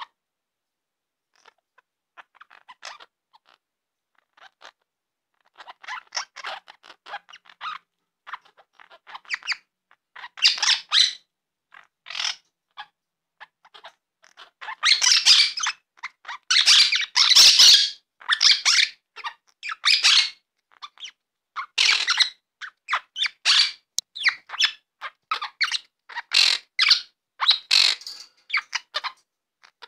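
Male budgerigar chattering and squawking in quick bursts of noisy chirps, sparse and faint at first, then much louder and busier from about ten seconds in. This is the excited chatter of a budgie mating with a hand.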